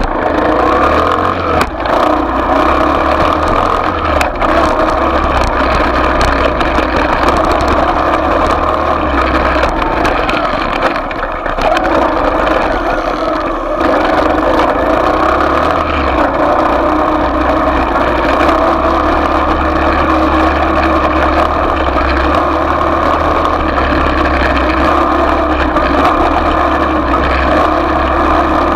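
A small off-road motorbike engine running at fairly steady revs, easing off briefly twice near the middle before picking up again.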